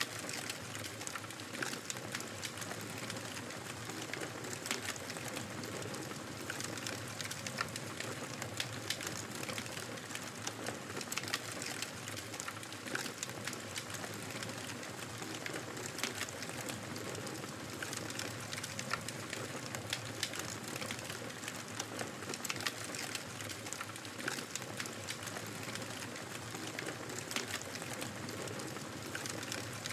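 Wood fire in a fireplace crackling steadily: a soft even hiss of flames with many small sharp pops and snaps scattered irregularly throughout.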